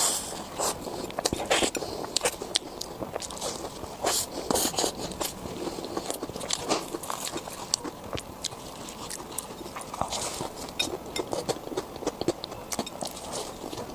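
Crispy food being bitten and chewed: a steady run of irregular crunches and crackles.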